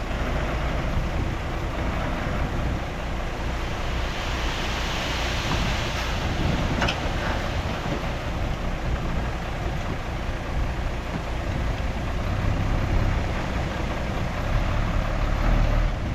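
Heavy diesel earthmoving machinery running steadily with a deep engine rumble, with a brief rise in hiss about five seconds in.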